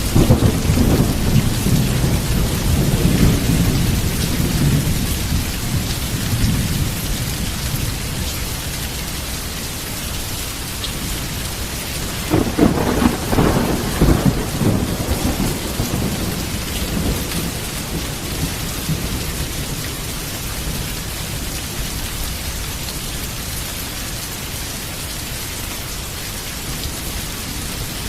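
Heavy rain falling steadily in a thunderstorm. Thunder rumbles at the start and dies away over several seconds, and a second peal cracks and rumbles about halfway through.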